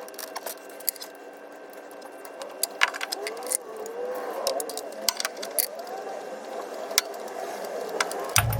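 Scattered sharp metallic clicks and clinks of hand tools, a socket and extension, working on the ignition coil and spark plug in a Honda Odyssey's engine bay.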